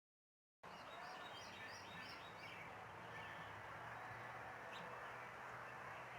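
Backyard ambience with a steady hiss, in which a small bird sings a quick series of about five repeated high notes, followed a couple of seconds later by a single sharp chip.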